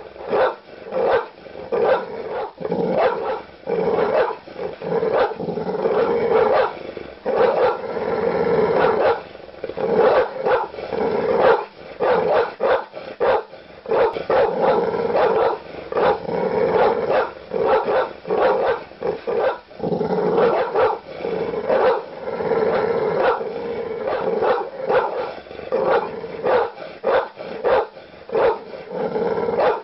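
A large dog barking aggressively: deep barks come one after another in quick bursts, broken by a few longer unbroken stretches.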